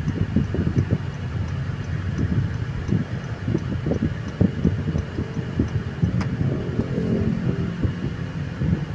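Honda City being driven on a road test after an automatic transmission repair: a steady low rumble of road and engine noise with irregular low thumps, and a faint steady hum that rises briefly in the second half.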